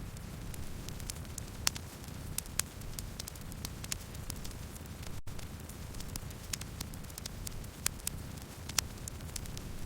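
Campfire burning: a steady low rumble of flames with irregular sharp crackles and pops from the burning wood, a few of them louder. The sound briefly cuts out for a split second about halfway through.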